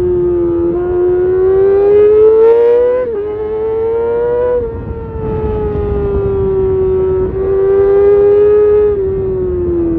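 Kawasaki Ninja ZX6R inline-four engine with an Arrow titanium race exhaust, running at high revs with a loud siren-like wail. The pitch climbs and sags with the throttle, with short breaks about three and five seconds in and again near seven seconds.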